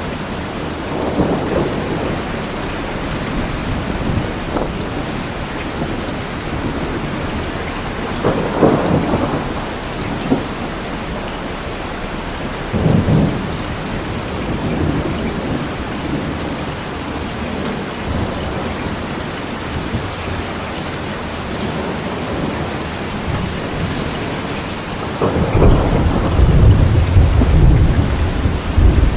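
Steady heavy rain falling, with several low rolls of thunder breaking through; the longest and loudest deep rumble starts near the end.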